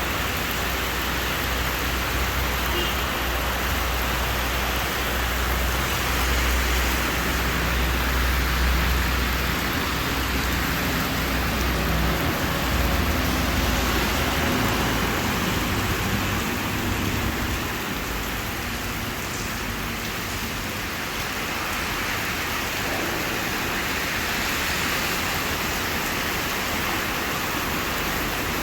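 Steady rain falling, an even hiss of water. A low rumble underneath through roughly the first half dies away after about sixteen seconds.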